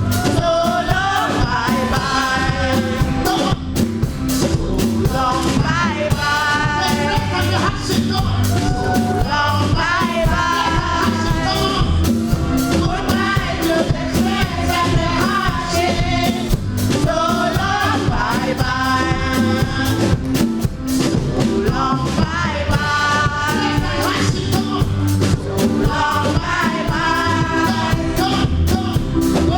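Live gospel singing, several voices with a band behind them, playing a song with a steady driving beat and a heavy bass.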